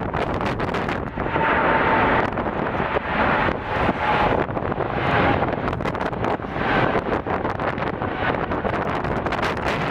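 Wind buffeting the camera microphone in gusts, over the steady noise of jet aircraft engines, with a faint whine coming and going.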